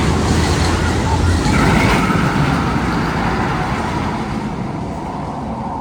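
Roller-coaster tunnel sound effect: a loud, steady rumble like passing traffic or a train.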